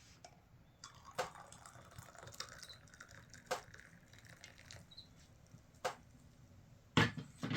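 Water dripping: single drops land one at a time at uneven intervals, a second or two apart, with the loudest near the end.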